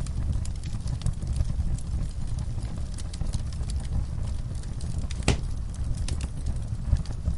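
Fire crackling in a fireplace: a steady low rumble of burning with scattered sharp crackles and one louder pop about five seconds in.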